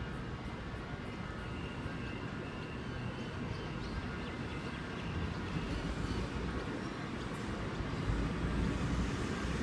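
Electric suburban train moving through the station: a steady low rumble with a faint steady whine above it, growing louder about halfway through and again near the end.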